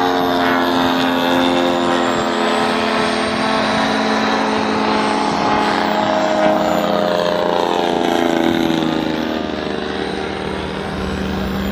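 Moki radial engine of a large RC Corsair model in flight, running steadily. The engine note slides slowly lower over most of the stretch, as with a fly-by or throttle easing, then holds steady near the end.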